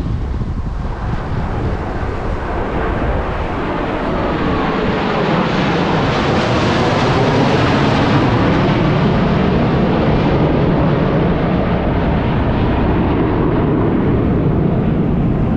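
Jet roar of the Blue Angels' four-ship Diamond of F/A-18 Super Hornets making a slow-speed formation pass, swelling to its loudest about halfway through and then easing off a little.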